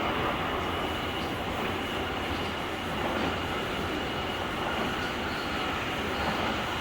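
Running noise of a JR Kyushu 883 series limited express (GTO-inverter electric train), heard from the vestibule deck: a steady rumble of wheels on rail with a thin, high, steady tone above it.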